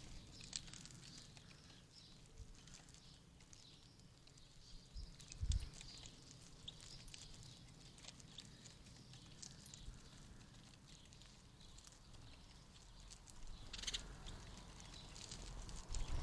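Goldfinches giving short high chirps and twitters at a garden bird feeder, with a few dull knocks against the feeder, the loudest about five and a half seconds in.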